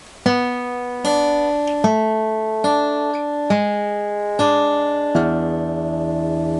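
Martin D-28 acoustic guitar played solo: a run of picked chords about one every 0.8 seconds, then a full chord struck a little after five seconds in and left ringing.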